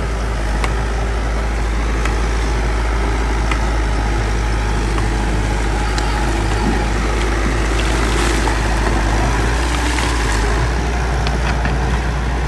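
Bulldozer's diesel engine running steadily, with a few sharp clicks scattered through it.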